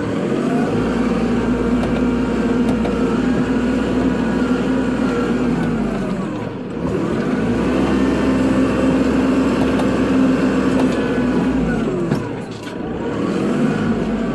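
Kubota tractor's diesel engine running under load while plowing snow. Its speed drops and picks back up three times, about six seconds apart.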